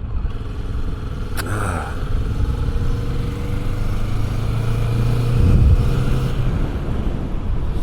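Motorcycle engine running steadily under throttle, with road and wind rush. It grows louder about five seconds in and eases off a little after six seconds.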